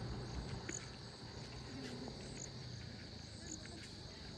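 Insect chorus: a steady high trill, with a fainter, higher chirp about once a second. A low rumble fades away during the first second.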